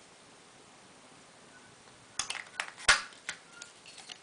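Light plastic clicks and rustles from a mini vacuum cleaner and its parts being handled. There is a pause first, then a few clicks from about halfway, the loudest a little after the middle. The motor is not running.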